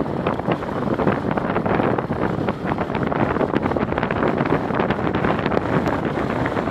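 Wind buffeting the microphone in a steady rushing noise, with many faint ticks running through it.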